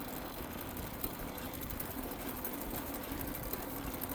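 Bike in motion, giving a steady mechanical whir with a constant hum, while wind rumbles low on the microphone.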